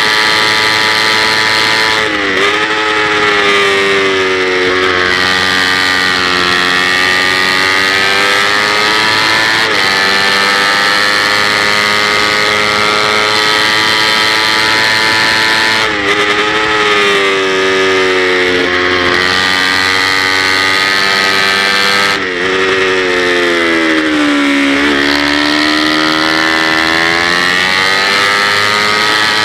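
Kawasaki Ninja 250's parallel-twin engine running hard at high revs, heard from on board the bike. Its note holds high, then drops three times as the bike slows, and climbs again each time as it accelerates back up.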